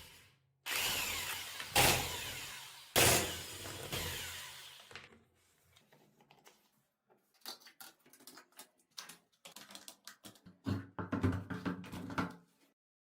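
Three heavy metal strikes on a seized scooter wheel rim and hub, each ringing out for about a second, as the rim is persuaded off a hub it has corroded onto. These are followed by a run of lighter clinks and taps.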